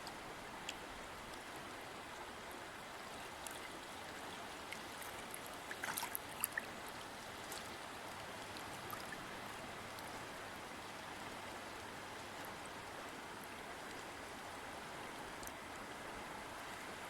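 A river or stream flowing steadily, an even rushing of water, with a brief cluster of sharper clicks about six seconds in.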